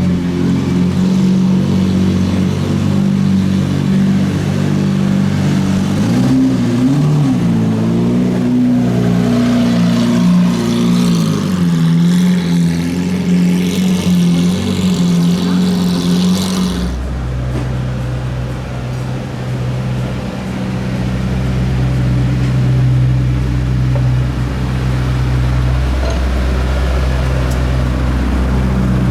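Car engines running at low revs, with a short blip of the throttle a few seconds in; about 17 seconds in it changes abruptly to a deeper, steady engine note.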